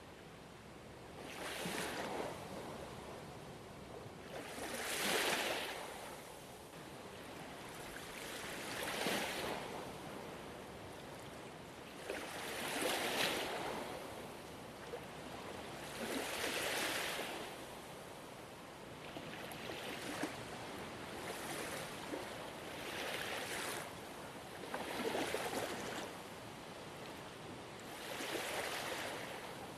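Gentle ocean waves breaking and washing on a shore, a wave every three to four seconds over a steady hiss of surf.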